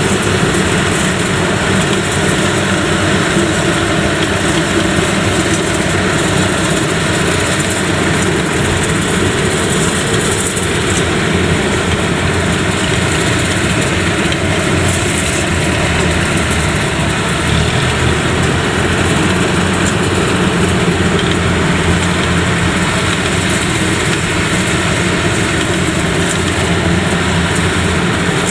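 Yanmar YH85 rice combine harvester's diesel engine running steadily, at an even, unchanging level.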